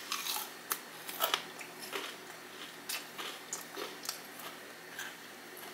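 Crunchy chewing of a fried pickle coated in crushed Flamin' Hot Cheetos: a bite, then an irregular string of sharp crunches as it is chewed, loudest about a second in.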